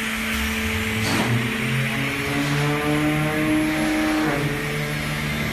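Automatic flaskless green sand moulding machine running. Its motor hum climbs in pitch over the first couple of seconds, holds steady, and drops back near the end, over a constant machine hiss.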